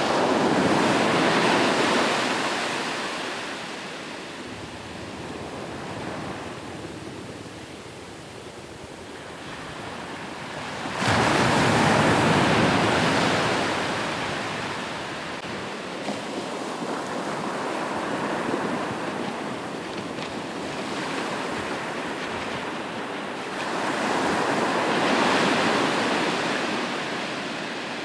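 Ocean waves breaking on a shore, three big breakers, the first near the start, one crashing in abruptly about eleven seconds in and another a little past the two-thirds mark, each washing out into a quieter hiss of surf between.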